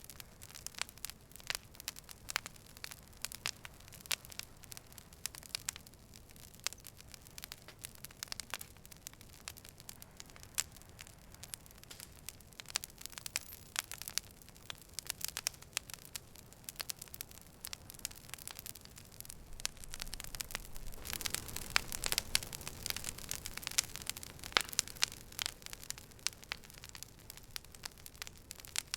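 Campfire crackling, with irregular sharp pops and snaps over a soft hiss. About two-thirds of the way through, the crackling grows denser and louder for a few seconds.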